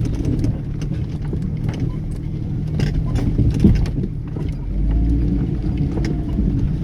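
Vehicle engine running as it drives down a rough, muddy dirt track, with frequent knocks and rattles from the body and suspension over ruts.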